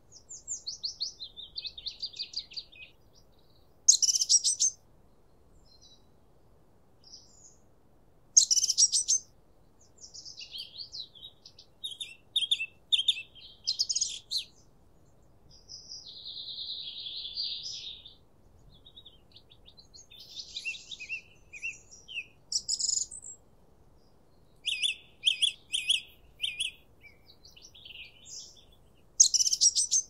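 Songbirds singing: a string of short high phrases of chirps, rapid trills and whistled notes with brief pauses between them, the loudest quick phrases about 4, 8 and 29 seconds in.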